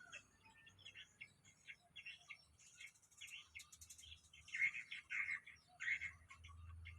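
Yellow-vented bulbul giving short chirping calls, over and over, with a few louder chirps in quick succession past the middle. A brief run of fast, very high ticks comes about halfway through.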